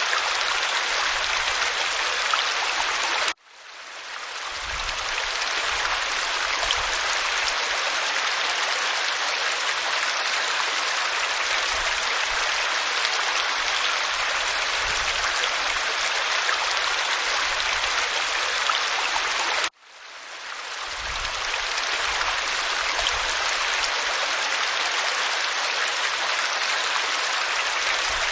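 Steady rush of a waterfall pouring over rock. The sound cuts out abruptly twice, a few seconds in and again about two-thirds of the way through, and fades back in over a couple of seconds each time.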